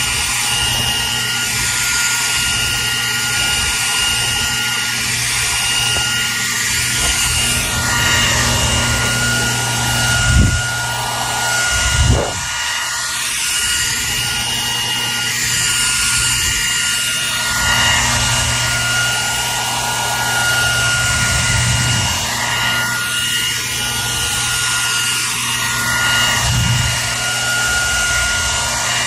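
Hair dryer running continuously: a steady rush of air over a constant motor whine, the hiss swelling and easing slowly. Two brief low thumps come about a third of the way in.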